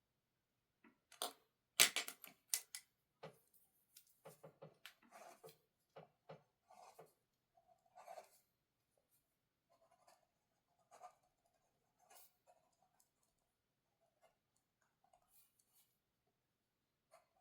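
Small objects handled at a desk: a quick cluster of sharp clicks and scrapes about two seconds in, then lighter taps and scratches that thin out.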